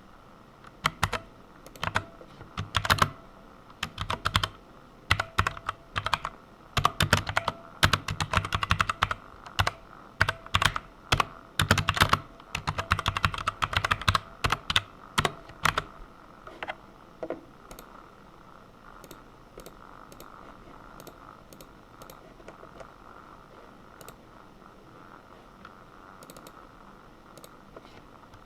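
Computer keyboard typing in quick runs of keystrokes for the first half, then only occasional faint clicks over a steady low hiss.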